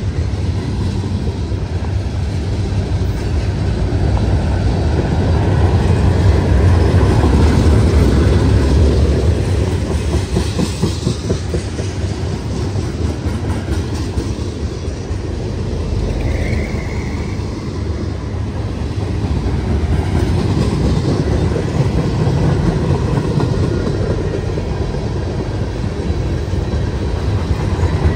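Freight train cars rolling past: a steady rumble of steel wheels on rail with continual clickety-clack over the joints, and a brief high squeal a little past halfway.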